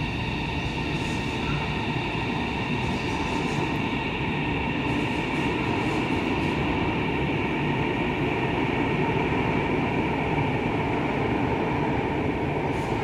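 A high-speed train moving through an underground station behind platform screen doors: a steady rumble with several held whining tones on top.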